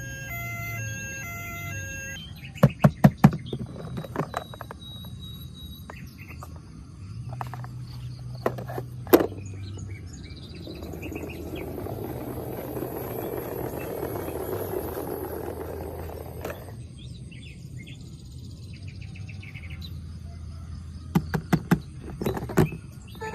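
Clusters of sharp clicks and knocks, and a rushing, rattling noise lasting about six seconds in the middle, over a low steady hum.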